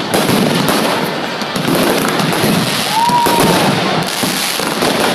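Dense, continuous crackling and popping, with a short whistle-like tone about three seconds in.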